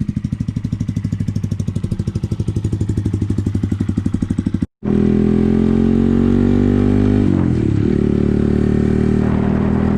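Honda Grom 125's single-cylinder four-stroke engine through an AODONLY titanium dual exhaust with the baffles in, idling with a steady thump of about a dozen beats a second. After a sudden cut about five seconds in, it runs at higher, smoother revs, the pitch rising slowly with a brief dip a couple of seconds later.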